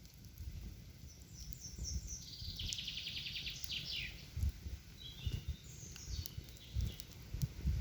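Songbirds singing in a forest: short chirping phrases, a rapid buzzy trill in the middle, and a few more chirps later, over a low rumble.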